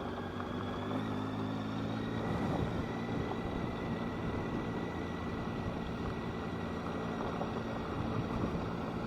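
Motorcycle engine running while riding, its pitch rising over the first couple of seconds and then holding steady, with wind noise rumbling underneath.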